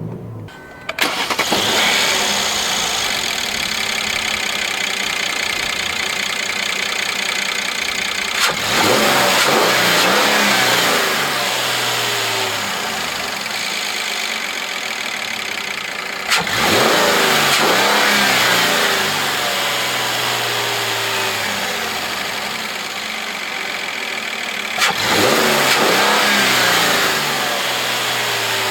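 The V6 engine of a 2013 Mercedes-Benz E300 4Matic comes in sharply about a second in and runs steadily. It is revved up three times, each rev easing back down over several seconds.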